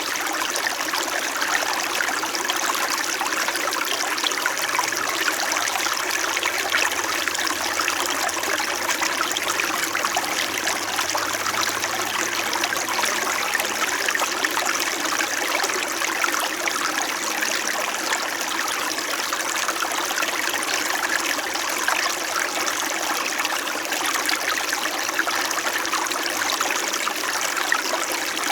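Small winter mountain stream flowing steadily, a continuous babbling trickle of water over stones.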